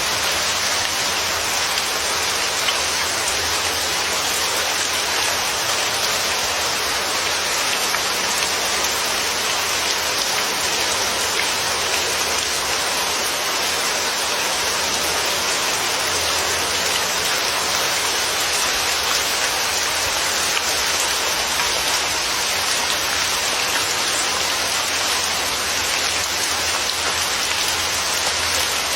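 Steady rainfall, the patter of rain on a surface as an even, unbroken hiss.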